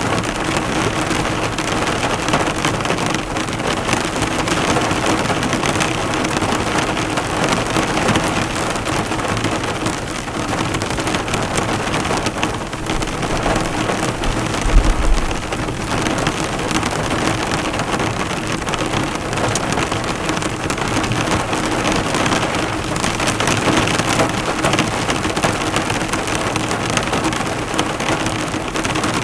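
Heavy rain falling steadily on a car, the drops spattering and bouncing off the hood. About halfway through there is one brief low thump.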